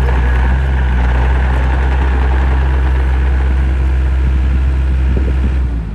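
Diesel engine of a Gehl 603 mini excavator running steadily with a deep, even drone.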